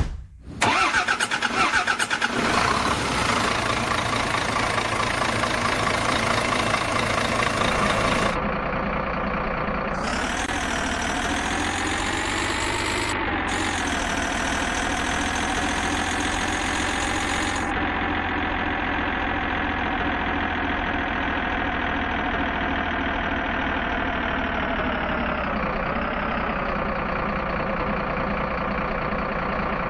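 Truck engine starting and then running steadily, rising briefly in pitch about ten seconds in and settling back, with a small dip in pitch near the end.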